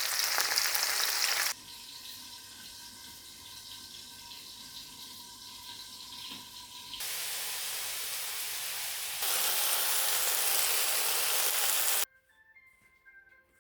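Kitchen cooking noise: a steady hiss in several abruptly cut segments, the last and loudest cutting off suddenly near the end. Between the loud segments there is a quieter stretch with a few steady tones, like soft music.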